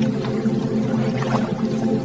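Water trickling and pouring, with many small irregular droplet sounds over a low steady hum.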